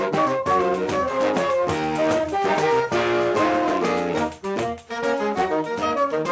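Saxophone quartet playing several lines in harmony, with steady hand percussion keeping a quick beat; the ensemble breaks off briefly a little past the middle before carrying on.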